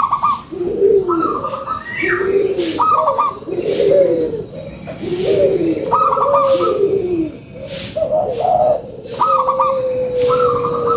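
Zebra doves (perkutut) singing: a steady run of short coos, one after another, with higher notes between them and one long held note near the end.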